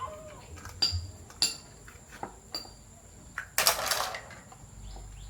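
Small metal parts or tools clinking: four sharp metallic clinks with a short ring, then a brief louder clatter about three and a half seconds in.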